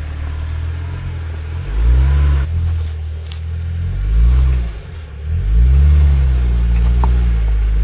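Rock-crawling off-road truck's engine revving up and down in several throttle bursts as it crawls over rocks.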